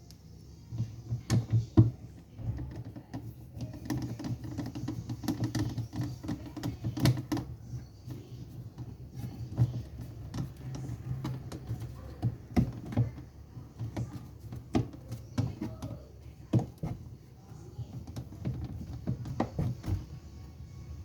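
Irregular clicks, taps and knocks of hands working on the plastic and metal parts of a washing machine during a repair, over a low hum.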